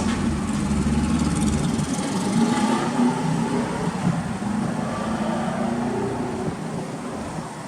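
Toyota Altezza SXE10's four-cylinder engine running steadily through a Fujitsubo aftermarket muffler, getting a little quieter near the end.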